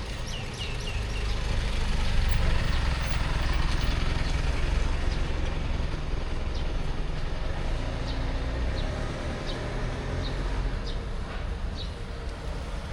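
City street traffic: a steady low rumble of motor vehicle engines with road noise, swelling for a few seconds as traffic passes, and a scattering of short high chirps.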